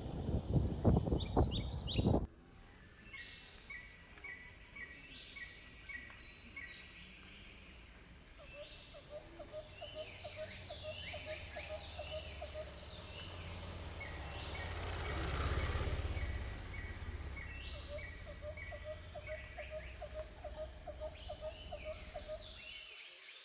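Tropical forest ambience: several birds calling in repeated short chirps, quick falling whistles and fast trills over a steady high insect hum. It opens with two seconds of loud rustling rumble that cuts off abruptly, and a low swell of noise rises and falls about halfway through.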